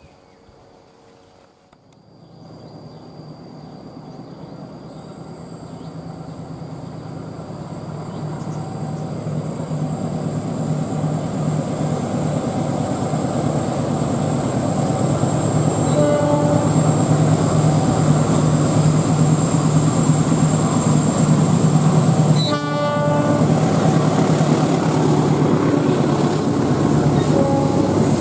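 CC 206 diesel-electric locomotive hauling a passenger train, its engine rumble growing louder as it approaches and then running steadily loud as it passes. The horn gives a short, faint blast past the halfway point and a louder brief blast a few seconds later.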